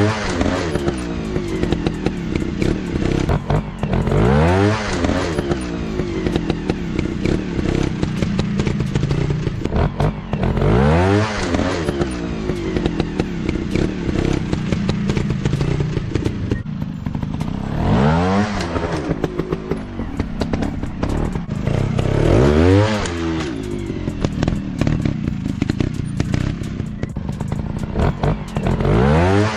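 Dirt bike engines running, their pitch climbing and falling in about five surges several seconds apart as the throttle is opened and closed, with clattering throughout.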